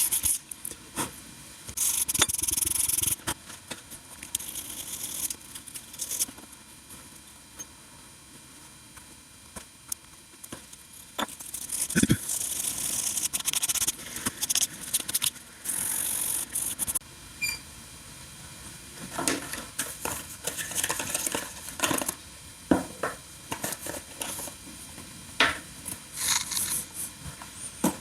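Intermittent scraping and rubbing strokes, each lasting a second or so, with scattered sharp clicks and taps, from hand work on a dinghy puncture patch.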